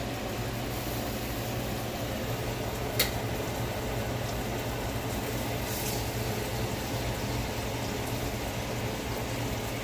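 Burgers frying in a skillet with a steady sizzle of hot grease, and one sharp click about three seconds in.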